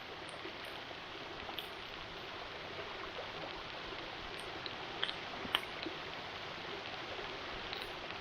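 Steady rushing of a stream, with a few faint sharp clicks about five seconds in.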